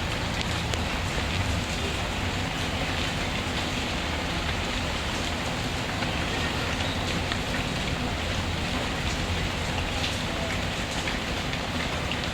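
Steady rainfall, a dense even patter of raindrops, mixed with the low crackle of a wood fire.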